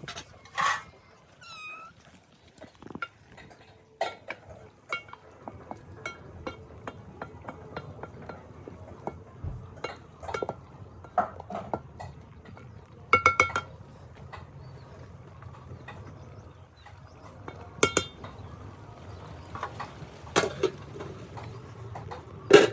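Scattered clinks and knocks of pots, dishes and utensils, some in quick clusters, over a low steady background. A short animal call with bending pitch sounds near the start.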